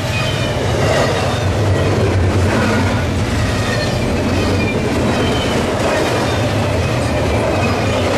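CSX freight train rolling past close by, its cars clattering steadily over the rails, with a few brief faint wheel squeals.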